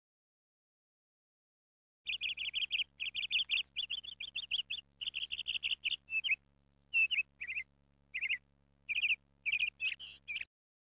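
A small bird chirping in quick, rapid trills and short bursts, starting after about two seconds of silence.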